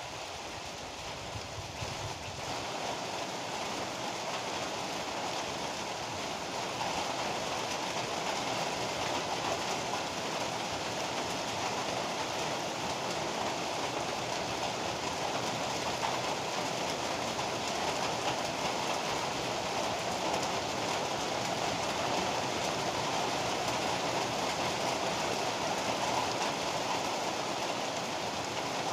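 Steady heavy rain pouring down as a dense, even hiss, growing a little louder over the first several seconds and then holding steady.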